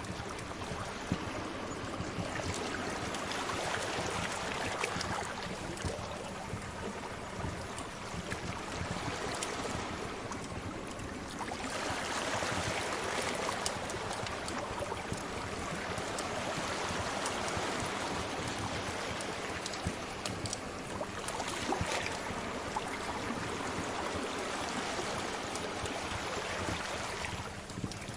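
Sea waves washing in and out in slow swells, with the small pops and crackles of a wood fire scattered over them.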